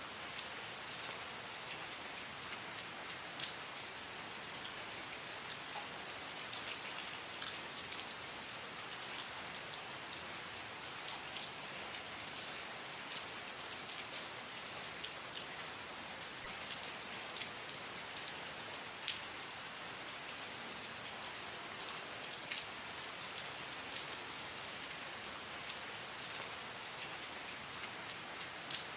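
Steady rain falling, with close individual drops pattering and ticking on a surface throughout.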